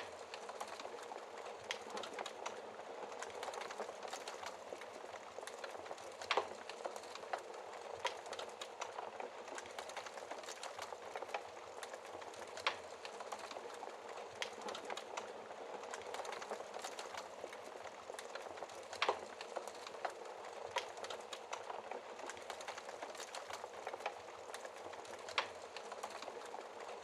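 Fire burning behind a glass shield: a steady hiss with many small crackles and four louder pops, about six seconds apart.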